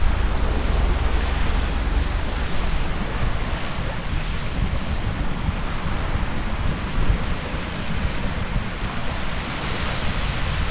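Wind buffeting the microphone with a low rumble, over the steady wash of sea surf.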